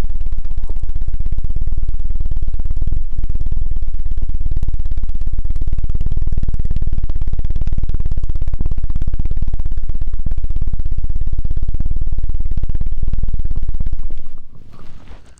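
ASMR 'helicopter' ear-cleaning trigger on an ear microphone: a fast, dense, bass-heavy fluttering thump, like a helicopter rotor. It stops about 14 seconds in, leaving softer handling sounds.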